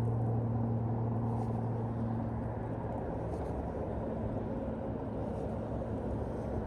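A motor's steady low hum that fades away over the first few seconds, over a constant low rushing noise.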